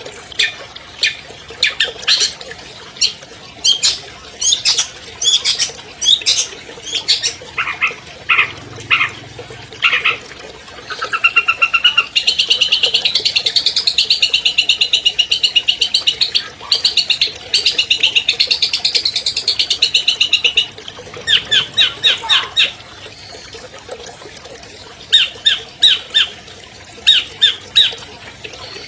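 Long-tailed shrike (cendet) singing: a string of sharp, harsh notes, then a fast, unbroken trill from about a third of the way in that runs for roughly nine seconds, then more short sharp notes.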